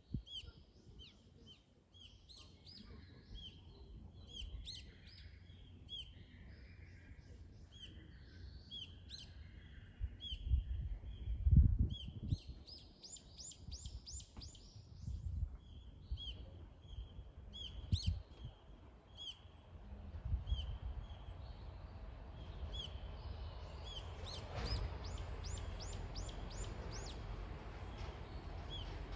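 Wild songbirds singing: one repeats a short high chirp every second or so, and a rapid run of even higher notes comes twice, about halfway through and again near the end. Low rumbles break in now and then, and a soft rushing hiss builds in the second half.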